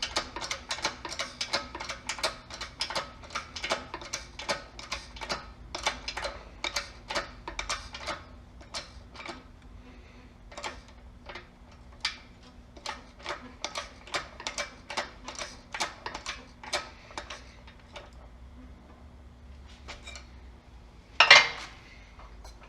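Repeated sharp metallic clicks, about two to three a second and thinning out about halfway through, from a tool pressing a new rubber engine mount bushing into its mount; one louder metal clank near the end.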